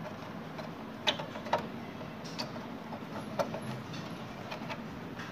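Power cable plugs being pushed into the sockets of a desktop PC cabinet and monitor: a handful of sharp plastic clicks and knocks, the loudest two about a second in and half a second apart.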